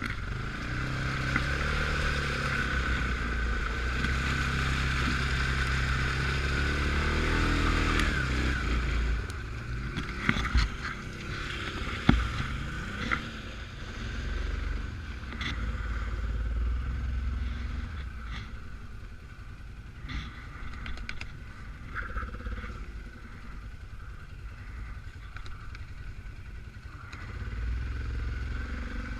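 Suzuki KingQuad 750 AXi ATV's single-cylinder engine running under load off-road, its revs rising and falling. A few sharp knocks and some clatter come about ten to thirteen seconds in. After that the engine runs quieter, then picks up again near the end.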